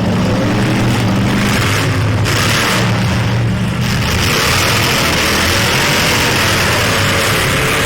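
Derby truck engines running hard and revving, their pitch rising and falling, with a rushing hiss added from about four seconds in.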